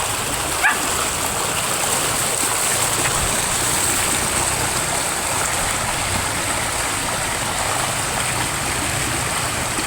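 Steady rushing noise like running water, with a high hiss over it and one short rising chirp about a second in.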